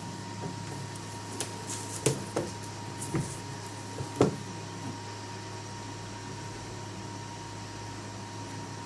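Two cats play-fighting: a handful of short thumps and scuffles in the first half, over a steady electrical hum.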